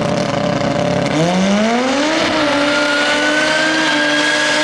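Turbocharged street race cars, an LS-powered twin-turbo Mustang and a turbo all-wheel-drive Eclipse, at the start line. An engine runs steadily at first, then about a second in its revs climb for about a second and are held high and steady: the cars being brought up on revs to launch.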